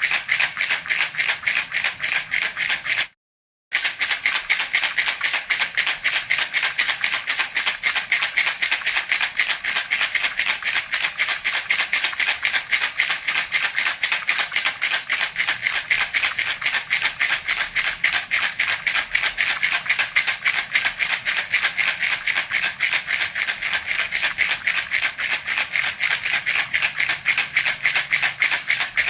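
Baby rattle (jhunjhuna) shaken in a fast, even rhythm, giving a continuous bright rattling. The sound cuts out for about half a second near the start, then carries on.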